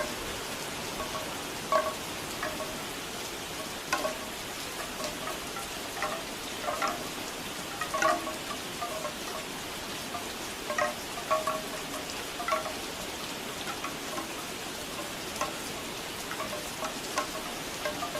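Bamboo wind chimes clacking at irregular intervals, their hollow tubes giving short knocking notes, over a steady hiss of falling rain.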